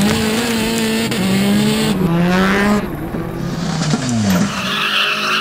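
Subaru WRX STI rallycross car's turbocharged flat-four engine revving hard, its note breaking and dropping several times as the driver shifts and lifts off, with the pitch falling away about four seconds in. Near the end the tyres squeal as the car drifts.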